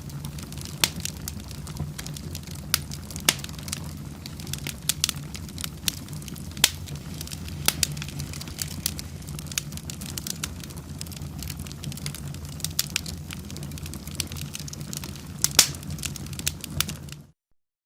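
Wood fire in a fireplace crackling, with irregular sharp pops over a low steady rumble. The sound cuts off suddenly to silence near the end.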